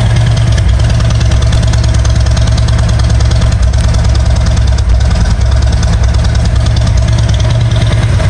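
Harley-Davidson Road Glide's Milwaukee-Eight 107 V-twin idling steadily through aftermarket Rinehart 4-inch exhaust, loud and low-pitched with an even beat and no revving.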